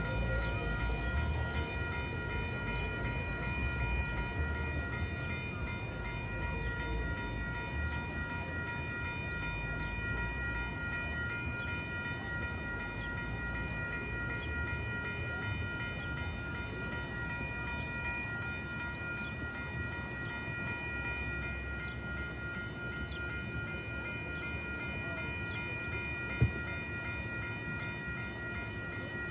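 A train passing with a steady low rumble, while several steady high tones pulse evenly, typical of grade-crossing bells ringing. One sharp knock about 26 seconds in.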